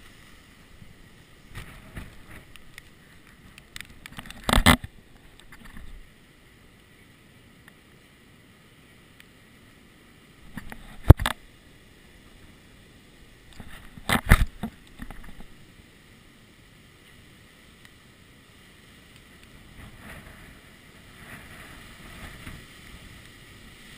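Muffled outdoor rumble heard through a GoPro's sealed waterproof housing, broken by three short, sharp knocks about four, eleven and fourteen seconds in, the middle one the loudest.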